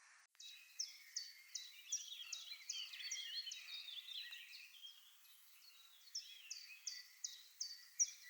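Birds singing: a run of short, high notes, each sliding down, repeated about two or three times a second over continuous twittering; the repeated notes pause for a couple of seconds midway and then resume.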